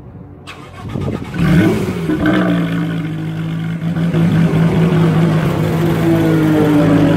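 Racing car engine blipped once about a second and a half in, then held at a steady pitch.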